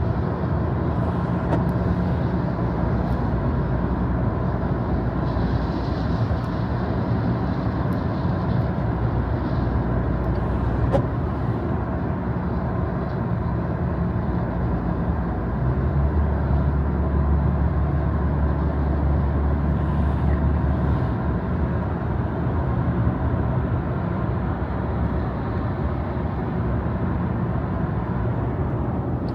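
A car driving on wet roads: a steady rumble of engine and tyre noise, growing deeper and louder for a few seconds past the middle.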